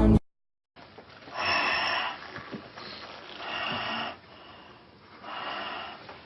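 Music cuts off, then after a brief silence come three loud, noisy breaths about two seconds apart, a rhythmic snoring-type breathing sound.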